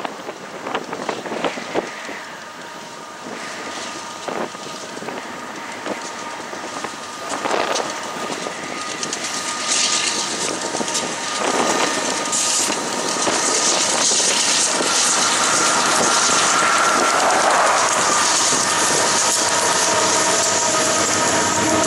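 A Union Pacific freight train passing on a curve: the GE AC4400CW and EMD SD70-series diesel locomotives go by, then a string of grain hopper cars rolls past with steady wheel-on-rail rumble and clatter. The sound grows louder about halfway through as the cars pass close by.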